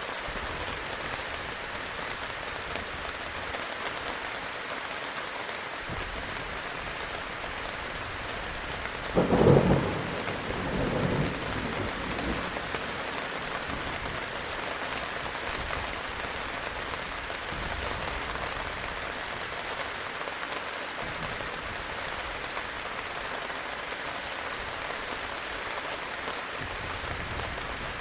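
Steady heavy rain with a thunderclap about nine seconds in, its rumble trailing off over the next few seconds.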